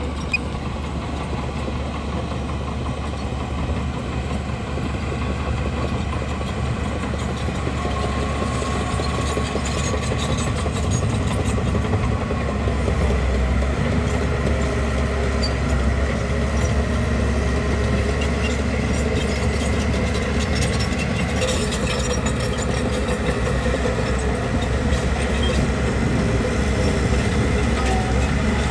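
Bulldozer's diesel engine running steadily, growing a little louder about ten seconds in.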